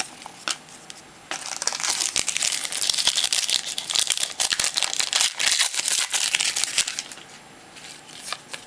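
Foil trading-card pack wrapper crinkling and being torn open: a dense crackle that starts about a second in and dies away near the end, with a few light clicks of cards being handled.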